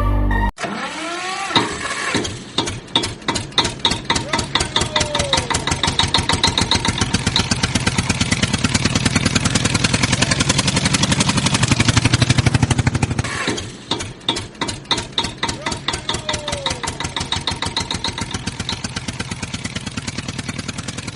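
Diesel tractor engine starting with slow chugs that quicken into a fast, steady run. About thirteen and a half seconds in it cuts out and the same start-up plays again.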